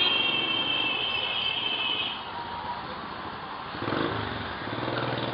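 Small engine of a front-engine motorised bicycle running, with a high steady whine over the first two seconds and the engine note swelling about four seconds in.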